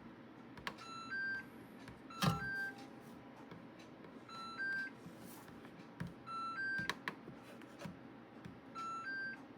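Aidoo 1 kg mini washing machine's control panel beeping as its buttons are pressed to step the delay-start time: about five short two-note beeps, a lower note then a higher one, a second or two apart, with a few button clicks.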